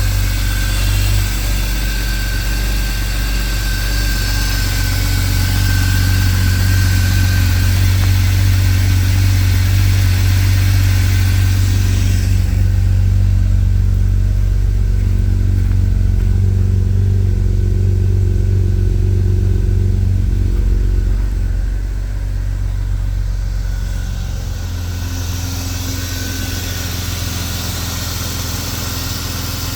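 1998 BMW E36 M3's straight-six engine idling steadily while warming up after a cold start. It gets a little quieter about two-thirds of the way through.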